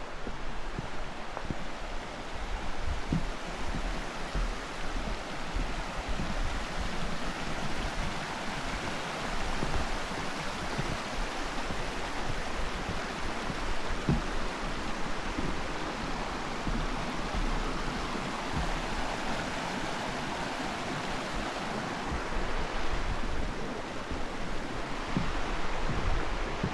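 A stream rushing steadily, with irregular low thumps of wind on the microphone.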